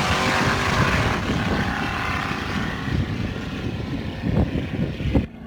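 A race car's engine running, its sound fading steadily as it moves away.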